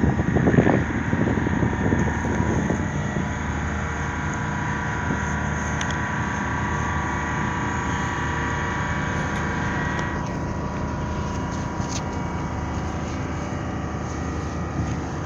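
Steady engine drone with a hum of several steady tones, a little louder and busier in the first couple of seconds.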